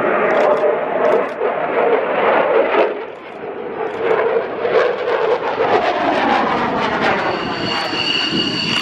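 Airplane engine noise from an aircraft in flight, steady and loud with a brief dip about three seconds in. A steady high whine joins near the end.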